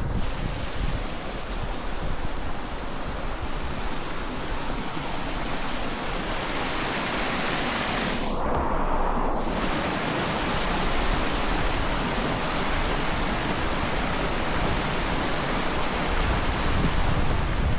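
Steady rushing of running water, like a small hot-spring cascade, as an even hiss that holds level throughout and dulls briefly in its highest part about halfway through.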